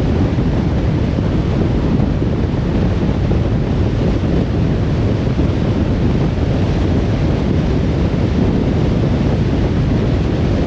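Steady road noise of a car driving: a continuous low rumble of tyres on the road, mixed with wind rush.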